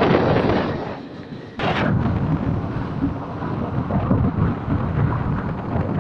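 Rumble and rattle of a moving passenger train heard from an open door or window, with wind buffeting the microphone. It dips briefly, then jumps back suddenly loud about a second and a half in and runs on steadily.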